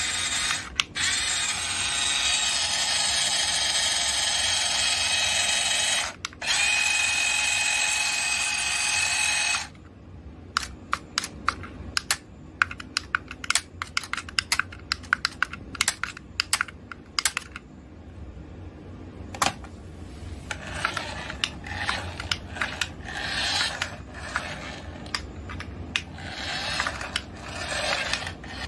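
Small electric motor of a mini RC toy whirring for about ten seconds, with two short breaks and a change in pitch after the second, then many sharp plastic clicks and rattles from the toy being handled, with stretches of rustling near the end.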